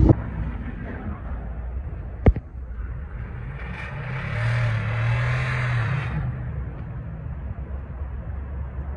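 A car passing, its engine and tyre noise swelling from about three seconds in and fading away by about six seconds, over a steady low wind rumble on the microphone. A single sharp knock a little over two seconds in.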